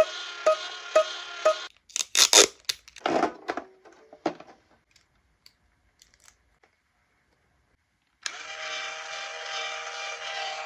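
Anpanman toy guitar sounding a held cluster of tones with sharp clicks about twice a second. The tones cut off a couple of seconds in, followed by irregular clattering, a few seconds of near silence, then a steady cluster of several held tones starting again near the end.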